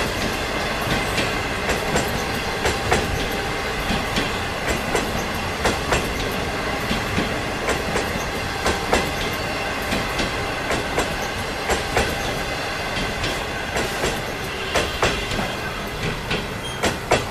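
Train of 25G passenger coaches rolling past at speed. Steady rumble with a rapid, irregular string of wheel clacks over the rail joints.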